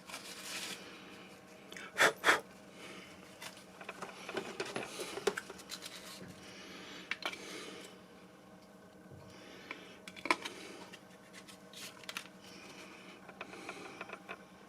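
Small hard objects being handled: a few sharp clicks, the loudest a close pair about two seconds in, with light scraping and rustling between.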